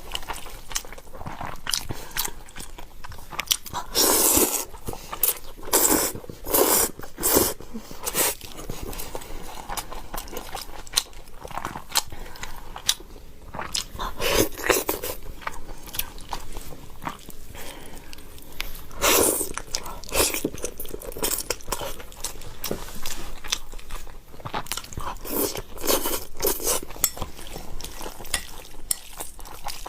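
Close-up eating sounds: a person biting and chewing food, with louder crunchy bites every few seconds.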